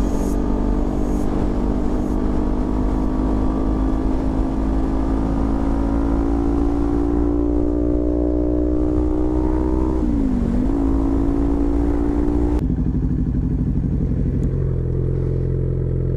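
A motorcycle engine running under way, its pitch slowly rising as it pulls, with a short dip about ten seconds in. A couple of seconds later it drops suddenly to a low, steady idle.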